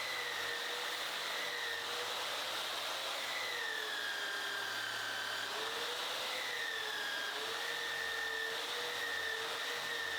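Electric power tool motor running with a steady whine that dips in pitch several times and recovers, as it is pressed into the metal of the knife blade and eased off.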